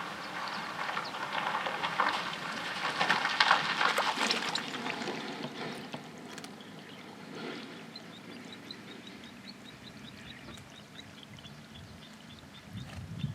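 Water splashing and trickling, busiest in the first few seconds and then dying down. Short high chirps then repeat a couple of times a second.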